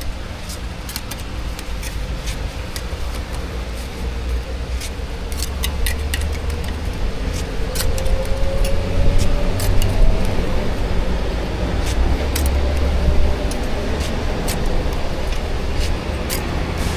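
Outdoor street noise: a steady low rumble of passing road traffic that swells a couple of times, with many short, sharp clicks and clinks scattered throughout.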